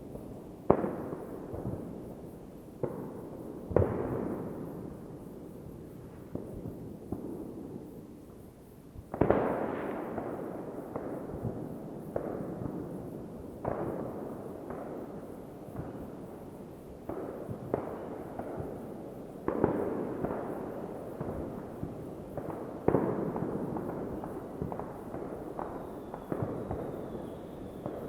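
New Year's Eve fireworks going off: a continuous run of sharp bangs at irregular intervals, each trailing into a rolling echo, over steady crackling and rumbling. The loudest bangs come about a second in, near the start of the second quarter, and twice more later on.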